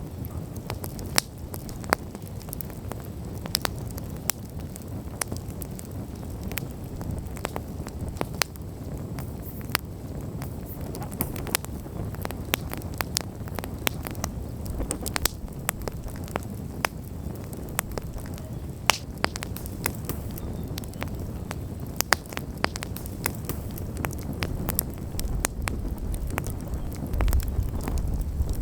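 Wood campfire burning, with frequent sharp crackles and pops over a steady low rush of flame. The low rumble grows louder near the end.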